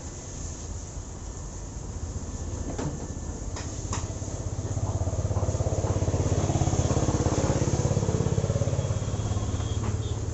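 Honda CB motorcycle engine running with an engine noise problem, swelling louder in the middle as it is revved a little and then settling back. A few sharp clicks sound around three to four seconds in.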